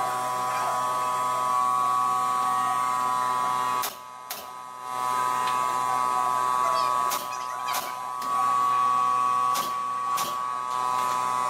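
Small electric power tool motor running at a steady speed with a high, even whine. It eases off briefly about four seconds in, and there are a few light clicks.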